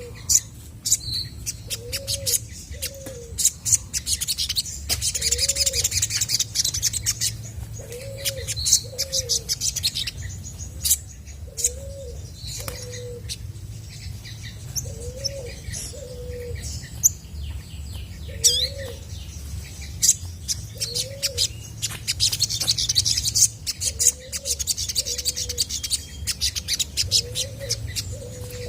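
Olive-backed sunbird singing: fast, high chirps, twitters and trills in bursts. Underneath, a low two-note call repeats every couple of seconds.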